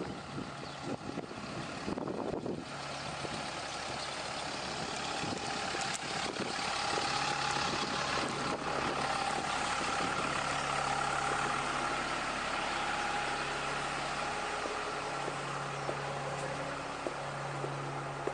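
Diesel engine of a 2013 Alexander Dennis Enviro 200 bus idling, with a steady hum and a faint whine over it.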